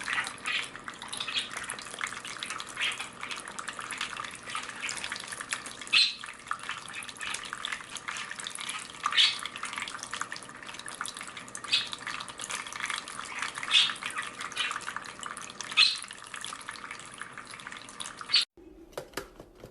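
Running water, like a tap or shower spray, hissing steadily with brief louder splashes every couple of seconds. It cuts off abruptly shortly before the end.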